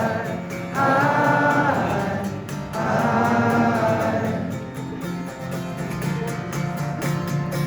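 Live band playing an acoustic-guitar song, with long held wordless sung notes over the guitar that grow softer in the second half.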